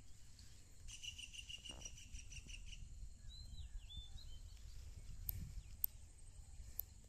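Birds calling in thick vegetation: a quick run of evenly repeated high notes for about two seconds, then a few short swooping whistles. A few sharp clicks come in the second half over a faint low rumble.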